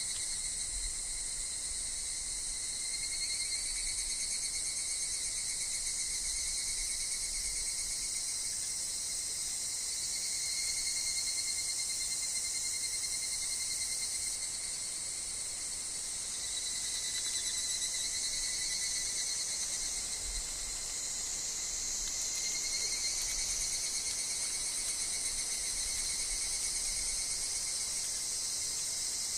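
A steady insect chorus that includes evening cicadas (higurashi): a high shrill with steady trilling tones below it, the high part swelling and shifting a little after about halfway.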